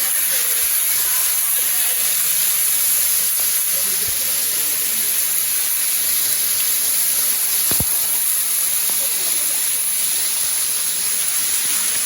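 Waterfall: a steady, even rush of falling water, with faint voices in the first few seconds and one short knock about eight seconds in.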